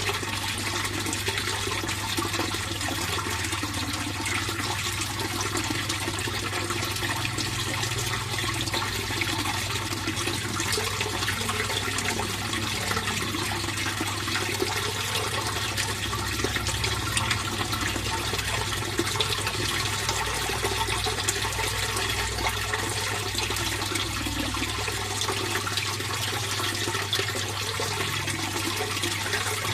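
Steady flowing water of a fish pond, a continuous splashing run of water with a steady low hum underneath.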